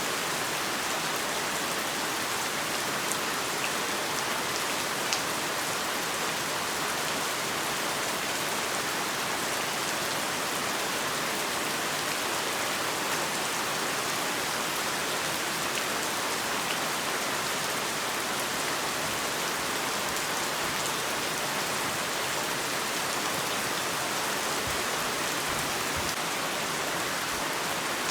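Heavy rain falling steadily, a dense even hiss of downpour with faint individual drop ticks.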